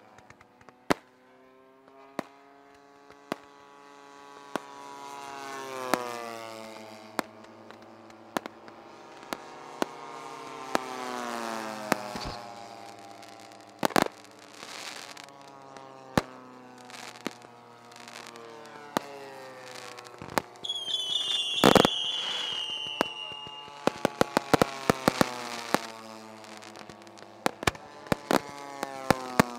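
Fireworks banging and crackling at irregular intervals, with an engine drone that swells and drops in pitch twice as it passes. About two-thirds of the way through, a high falling whistle comes with the loudest bang.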